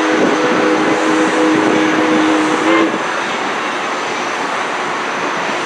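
Steam locomotive whistle sounding one long, steady chord that cuts off a little under three seconds in, over steady noise from the running train.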